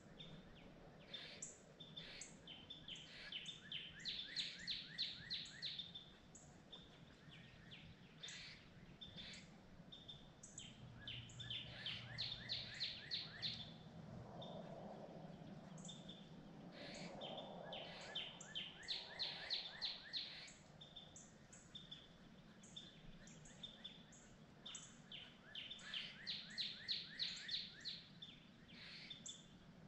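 A songbird singing fast runs of short falling whistled notes, each run lasting a second or two and repeated every several seconds, faint over quiet woodland background.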